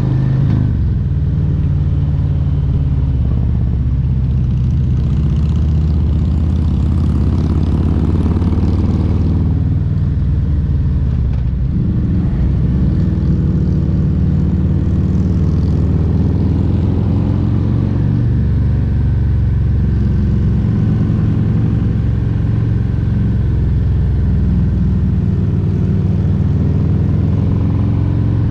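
Harley-Davidson Milwaukee-Eight 114 V-twin engine running under way on a Road Glide Special. The engine note dips about ten seconds in and picks up again a couple of seconds later.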